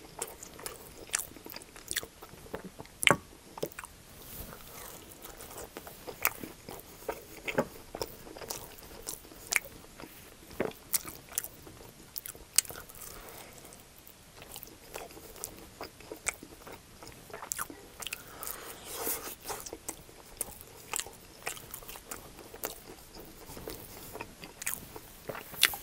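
A person chewing a toasted steak and cheese quesadilla close to the microphone, with irregular crunches and sharp mouth clicks.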